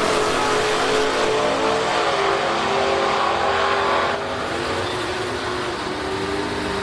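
Drag racing car's piston engine at full throttle, its pitch shifting as it runs, heard over a broad rushing noise; the sound drops abruptly about four seconds in.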